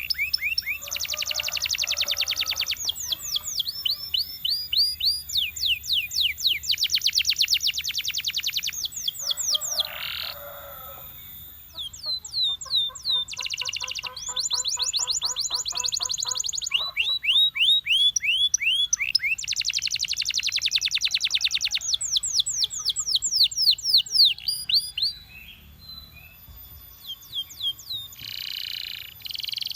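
Belgian canary singing a long, continuous song of fast trills and rapidly repeated sliding notes, switching to a new phrase every second or two, with a brief lull about twelve seconds in.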